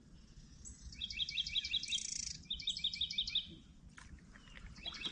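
A songbird singing two fast runs of quickly repeated high notes, about six notes a second, each run lasting about a second, with another run starting near the end.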